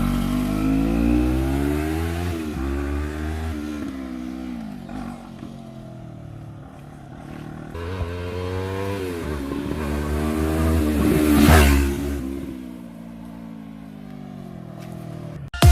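Yamaha R3's parallel-twin engine through an Akrapovic slip-on exhaust, revving and changing pitch as the bike rides away and comes back. It grows loudest as it passes about three-quarters of the way through, then fades as it moves off.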